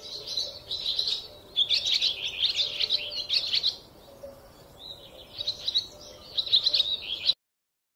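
Birds chirping in quick, high trills, busy at first, quieter for a moment around the middle, then busy again; the sound cuts off suddenly shortly before the end.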